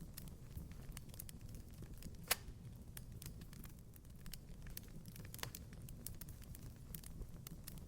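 Wood fire crackling in a fireplace: irregular small pops and snaps over a low rumble, with one sharper pop about two seconds in.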